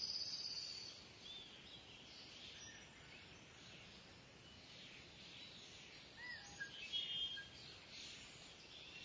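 Kingfisher calling: a loud, high, shrill whistled call in the first second, then short chirps and a brief trill about seven seconds in, over faint outdoor background noise.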